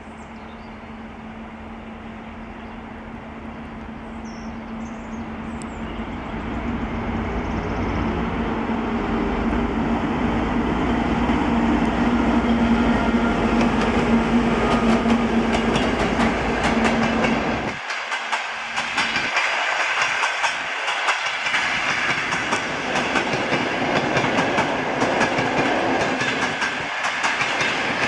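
TEP70K diesel locomotive approaching and passing at the head of a passenger train, its steady engine hum growing louder to a peak, then falling away about 18 seconds in as the coaches roll past with wheels clicking rhythmically over rail joints.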